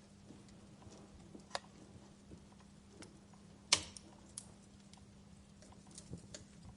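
Wood fire crackling, with scattered sharp pops; the loudest pop comes about halfway through.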